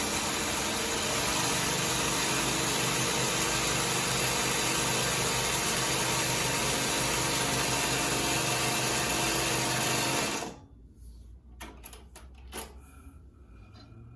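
Cylinder-arm walking-foot industrial sewing machine running steadily, sewing a test seam to check the thread tension, then stopping abruptly about ten seconds in. A few light clicks follow.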